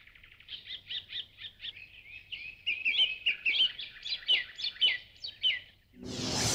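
A bird singing: a long run of quick chirps, several a second, growing louder in the second half and stopping shortly before the end.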